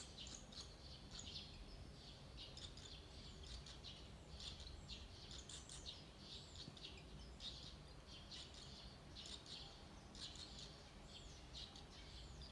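Barn swallow nestlings, about five days old, giving faint, dry, high chirps over and over throughout.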